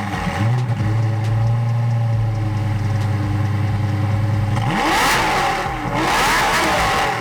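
Car engine idling steadily, then revved twice in quick succession near the end, its pitch climbing and falling back each time.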